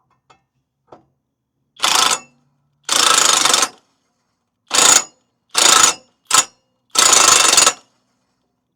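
Six short bursts of rapid mechanical ratcheting, each lasting under a second, from hand-tool work during a mower blade change. Two faint ticks come first.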